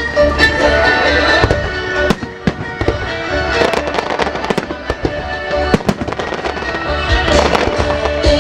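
Fireworks shells bursting in a rapid, irregular series of sharp bangs, over loud musical-theatre music playing for the music-synchronised show.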